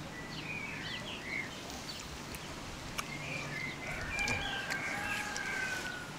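Birds chirping and calling: many short, quick chirps throughout, and a longer, slowly falling call from about four seconds in.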